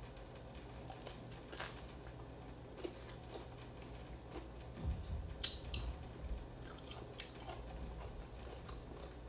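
Close-up biting and chewing of raw green mango slices, with irregular crisp crunches and wet mouth clicks. The strongest bites come about halfway through.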